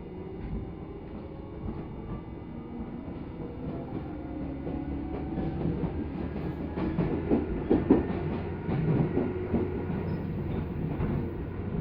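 Tobu 10030-series electric commuter train heard from inside the car, pulling away with its motor hum rising in pitch and getting louder. Wheels click over rail joints, more strongly in the second half.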